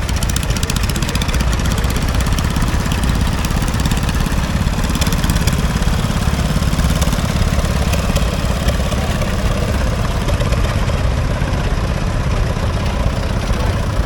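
Vintage farm tractor engine running steadily, an even low rumble made of fast, regular firing pulses.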